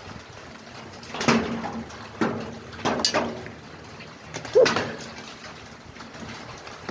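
Large hailstones striking a roof one at a time: several sharp separate knocks spread irregularly over a few seconds, a couple of them close together.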